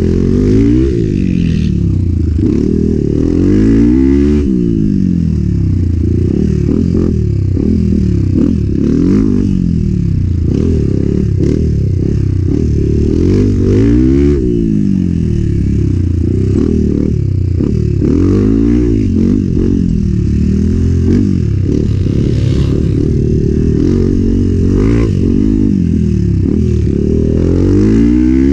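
Enduro motorcycle engine revving up and falling back again and again, its pitch rising and dropping every second or two under hard riding. Knocks and rattles of the bike going over rough ground come through now and then.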